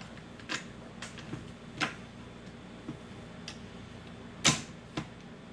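Irregular sharp metallic clicks and clinks from the gearset and shift parts of a manual transmission being shifted out of two engaged gears, with the loudest clack about four and a half seconds in.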